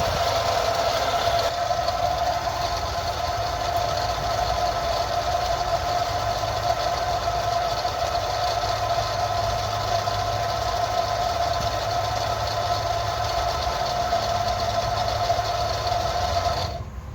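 The Commander's engine idling steadily on fresh oil after an oil change, with a steady whine over the running; it is switched off about a second before the end and the sound cuts out.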